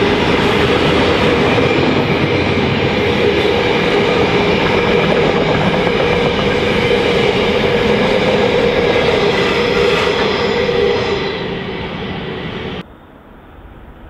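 Freight train rolling past close by, its wagons running with a loud, steady rumble and clatter over a steady whine. It fades about eleven seconds in and then cuts off suddenly to a much quieter background.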